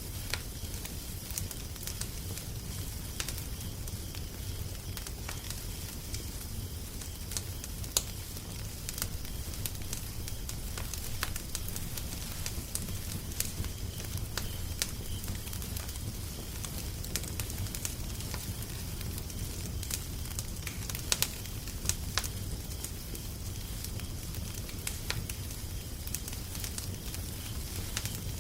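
Wood fire crackling, with irregular sharp pops over a steady low rumble and hiss; a few louder pops stand out about eight seconds in and near the twenty-one second mark.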